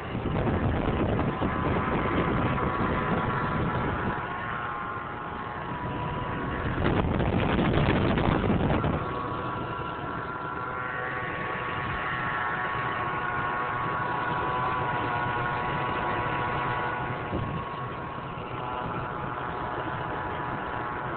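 1999 Mercury Mountaineer's V8 engine running with a constant high-pitched whine from the front of the engine, made of several steady tones that never go away. A new serpentine belt has not changed the whine. Around seven seconds in, a louder rush of noise lasts about two seconds.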